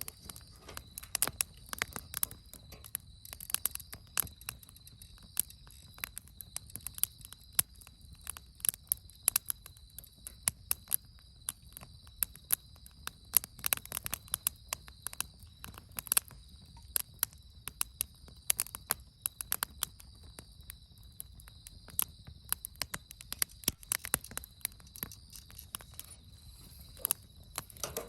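Wood campfire crackling, the burning firewood snapping and popping in irregular sharp cracks several times a second.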